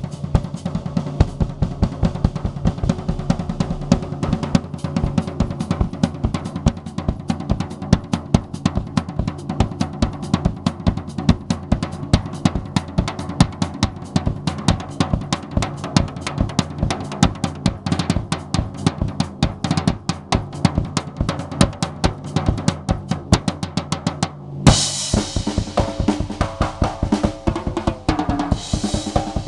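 5-piece Sound Percussion drum kit with Remo coated Emperor heads played in a fast solo: a dense run of snare, tom and bass drum strokes. About 24 seconds in the playing breaks off for an instant, then comes back with a cymbal crash and ringing cymbals over the drums.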